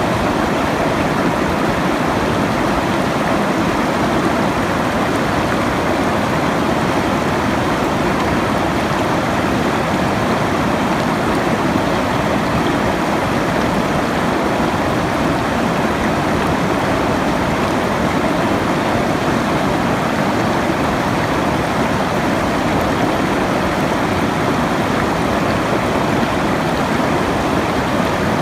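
Flowing water of a stream rushing steadily, an even sound with no breaks or changes.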